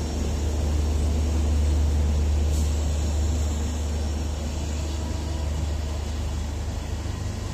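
Passenger train coaches rolling past: a steady deep rumble that swells about two seconds in and then slowly eases.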